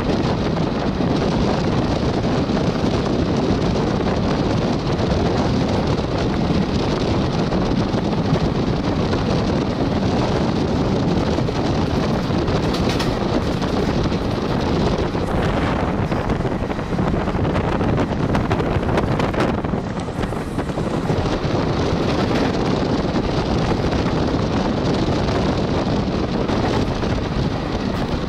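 Steady rush of a moving express passenger train heard from on board: wheels rolling on the track under a constant buffeting of wind on the microphone.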